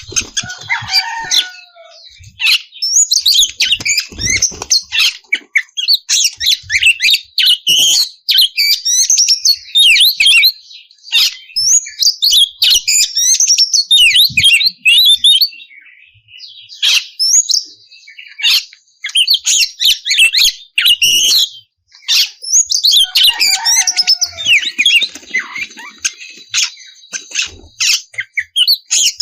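Oriental magpie-robin singing a loud, fast, varied song of whistles, trills and harsh clicking notes, with two brief breaks, about halfway and about three-quarters of the way through.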